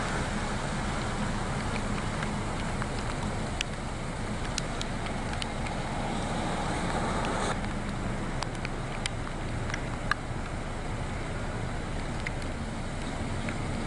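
Steady hiss of falling rain over a constant low rumble, with scattered sharp ticks; the hiss eases about seven and a half seconds in.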